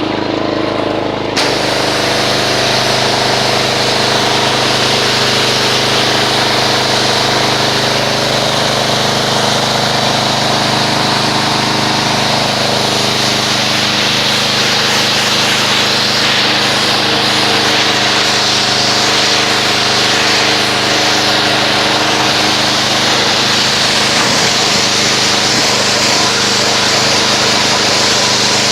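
Pressure washer running steadily, its motor and pump humming under the loud hiss of the high-pressure spray, which starts about a second in as the foam pre-wash is rinsed off a car.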